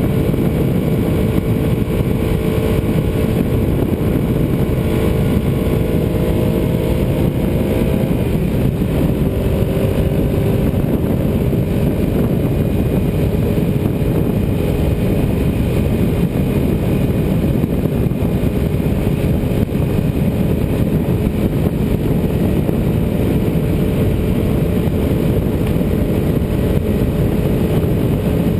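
Ducati 748R's V-twin engine running at road speed under a heavy rush of wind noise. The engine note climbs slowly, drops about eight seconds in, then holds steady.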